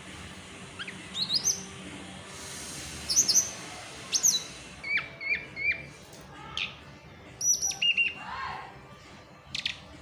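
Tledekan gunung songbird chattering: a scattered run of short, high, sharp whistled chirps and quick down-slurred notes, some repeated in little groups of three, over a faint steady hiss.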